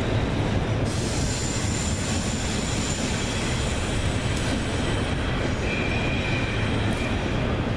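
A train passing: a steady rumbling noise of rail cars on the track, with a faint high-pitched wheel squeal about two-thirds of the way through.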